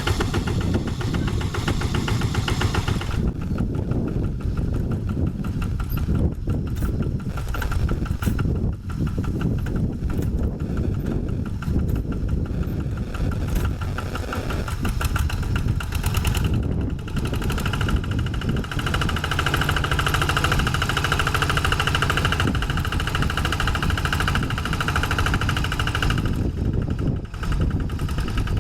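Single-cylinder diesel engine of a two-wheel hand tractor running steadily with rapid chugging. For a stretch past the middle it runs with a brighter, higher-pitched note, then settles back near the end.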